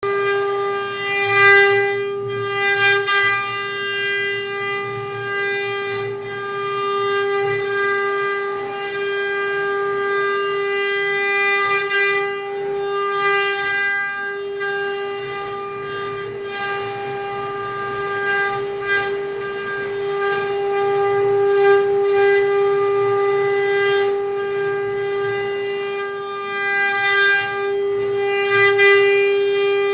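CNC router spindle running at a constant high speed: a steady high whine on one pitch, with a few brief louder moments now and then.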